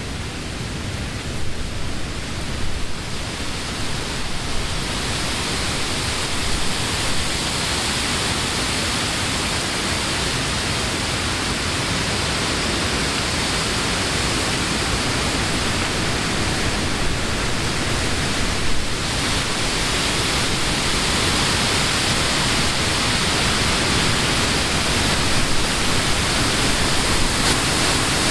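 Summer wind blowing through leafy trees: a steady rush of leaves with a low rumble underneath, swelling brighter a few seconds in and again about two-thirds of the way through.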